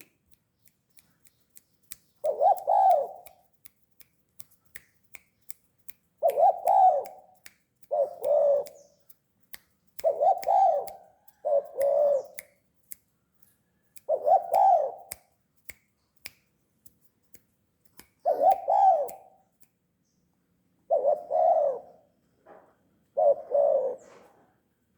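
Spotted dove cooing: about nine low coo phrases, each rising and falling in pitch, repeated every couple of seconds, some in close pairs. Faint sharp ticks sound between the coos.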